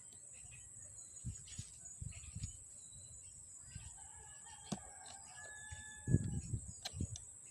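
A rooster crowing once in the background, a drawn-out call starting about four seconds in. Scattered low thumps and knocks of handling run under it, loudest near the end.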